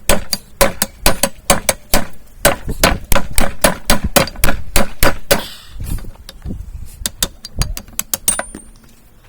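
Hammer blows driving a 1-inch round drift through the hot eye of a railroad-spike tomahawk, struck over an anvil at about four blows a second. The blows pause briefly about five and a half seconds in, then resume more sparsely.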